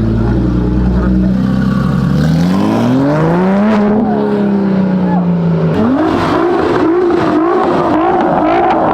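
Sports car engine revving: the pitch settles low, climbs smoothly about two and a half seconds in, then rises again about six seconds in into a run of quick revs up and down.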